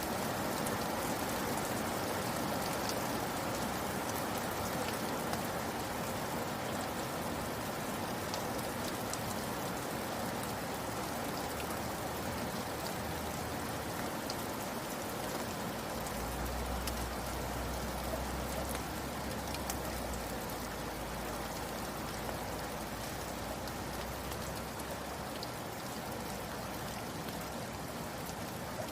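Steady rain falling, with many small drops ticking on a surface. A low rumble comes in about halfway through and dies away later.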